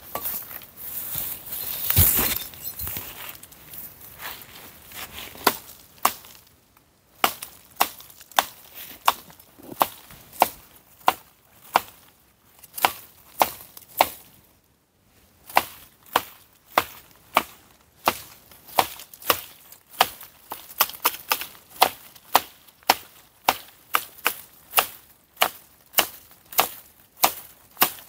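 Dry wood being chopped for firewood with a blade: sharp, regular strikes at about two a second, pausing briefly twice. Before the steady chopping there is rustling and one loud crack about two seconds in, the loudest sound here.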